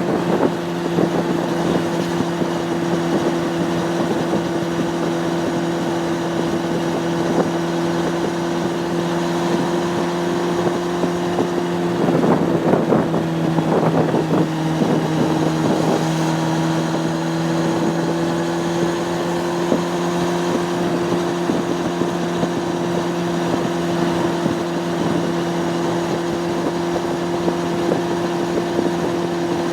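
Honda CB600F Hornet's inline-four engine running at steady cruising revs, heard from on the bike with wind on the microphone. About twelve seconds in there is a few seconds of rougher, uneven noise over the engine, then the steady engine note carries on.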